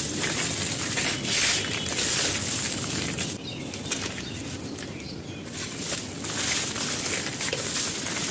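Dry, gritty chalky chunks being crushed and crumbled by hand: a dense, irregular crunching and crackling that eases for a couple of seconds in the middle.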